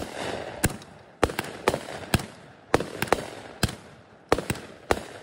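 Consumer aerial firework cake firing shot after shot into the air: a quick, uneven string of sharp bangs, about three a second, over a steady hiss.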